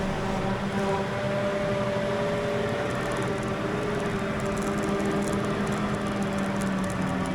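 Heavy farm machinery engines running steadily while harvesting silage in a grass field, one even drone with faint light ticks over it in the second half.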